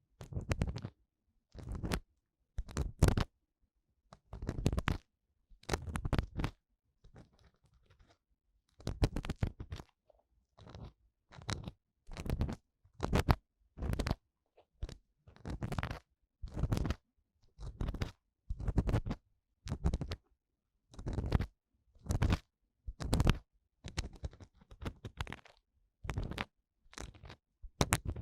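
An ear-cleaning tool scraping inside the ear of a 3Dio binaural dummy-head microphone, in repeated short strokes of about half a second, roughly one a second, with a softer stretch about seven seconds in.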